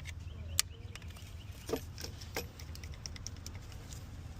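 Scattered light clicks and taps of a pry bar working a part up in an engine bay, one sharper click about half a second in, over a steady low hum.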